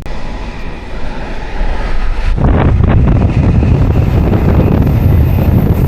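Train riding, with wind rushing over the microphone; about two seconds in the wind turns suddenly much louder and holds steady.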